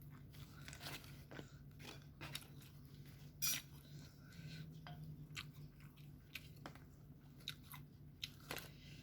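A person eating nasi goreng with chicken close to the microphone: irregular soft crunches and chewing, with one louder crunch about three and a half seconds in, over a faint steady low hum.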